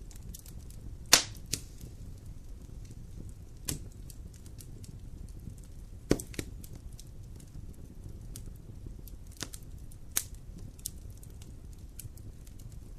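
Wood campfire burning: a steady low rush under small crackles and several sharp pops, the loudest about a second in and another about six seconds in.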